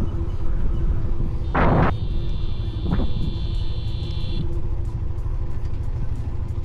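Wind and engine rumble from riding a Hero Xtreme 125R motorcycle. A vehicle horn sounds for about two seconds, starting about two seconds in.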